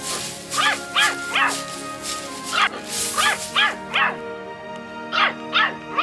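A dog barking in quick bunches of three or four short yaps, about ten in all, over steady background music.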